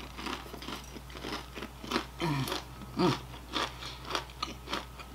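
Close-miked chewing and crunching of a mouthful of salad topped with jalapeño slices, in irregular crunches several times a second. Two short hummed 'mm' sounds come about two and three seconds in.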